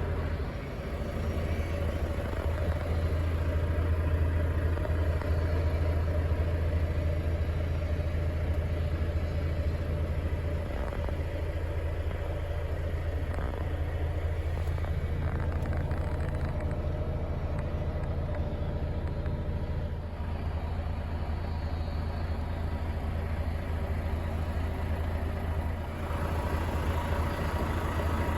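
Volvo FH 540 truck's 13-litre straight-six diesel engine running steadily with a deep, even hum and no revving.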